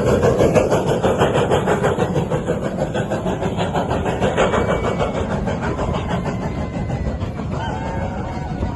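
Steam-hauled train running past on the rails with a dense, even clatter, loudest at the start and slowly fading.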